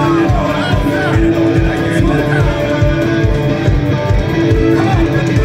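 Live rock band playing an instrumental passage: electric guitar with held and sliding notes over a fast, steady drum beat and bass.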